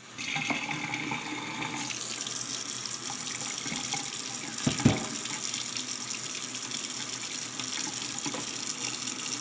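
Kitchen tap running steadily into a sink during dishwashing, with small clinks and one loud clunk about halfway through.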